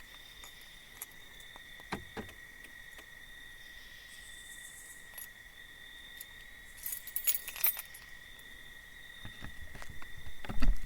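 Quiet night ambience with a faint, steady high-pitched tone. Scattered small clicks and a brief rattly rustle come about two-thirds of the way through, and louder handling thumps and rustling come near the end.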